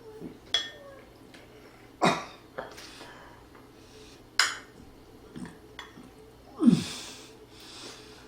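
A man's short, sharp mouth and throat sounds while eating and drinking, four loud ones about two seconds apart, the last with a falling voiced grunt.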